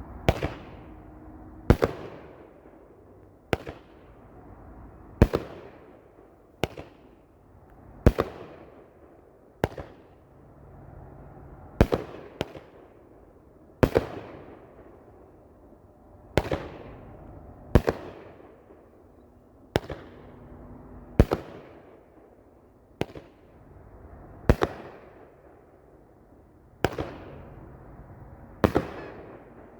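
500-gram, 24-shot consumer fireworks cake firing shot after shot: a sharp bang every one and a half to two seconds, each trailing off in a short fading hiss.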